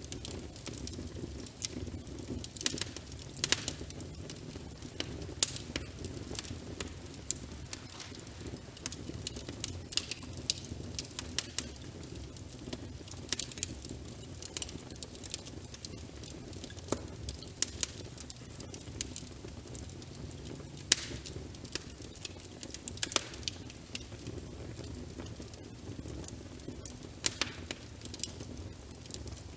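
Wood fire crackling in a fireplace, with irregular sharp pops and snaps several times a second, over a steady low hush of rain.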